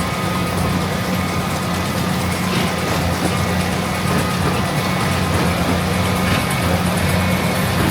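Heavy farm machinery running steadily, a deep diesel engine hum with a fainter whine above it and no change in pitch or loudness.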